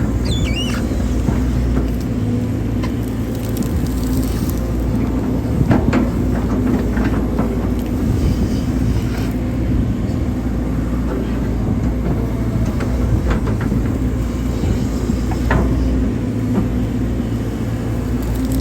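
Hydraulic excavator's diesel engine running steadily under work, with a few short knocks and clanks from the machine and a brief squeal at the start.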